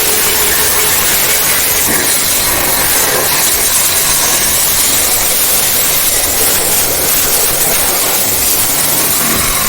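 High-pressure water washer jet spraying, a loud, steady hiss that holds without a break.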